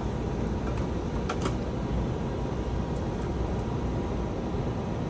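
Steady flight-deck rumble and air noise in a Boeing 757 flight simulator climbing out after takeoff, with a couple of faint clicks about a second and a half in.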